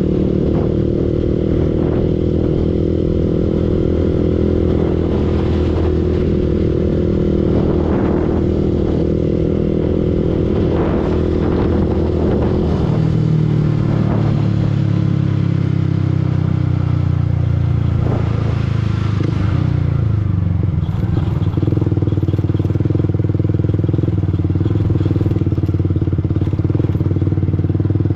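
Single-cylinder engine of a Yamaha R15 V2 sport motorcycle running under way. Its note drops about halfway through, then climbs back up near the end, with a few short knocks and clatter mixed in.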